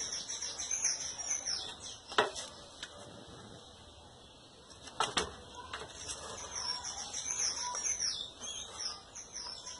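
Small birds chirping in quick, high, sliding notes during the first couple of seconds and again from about seven seconds in, with a few sharp knocks in between.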